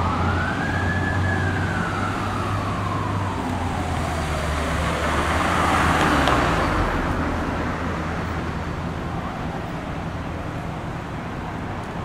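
Emergency vehicle siren wailing: one rise about a second in, then a slow fall over the next four seconds, over the low hum of a heavy engine. A rush of passing-vehicle noise swells about six seconds in, then fades to traffic noise.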